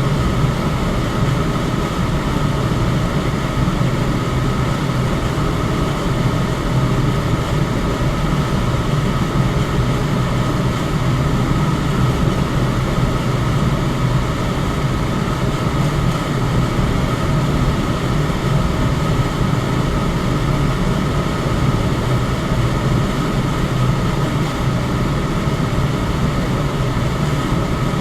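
Electric fan running steadily: a constant whooshing hum with a low drone and a faint steady whine.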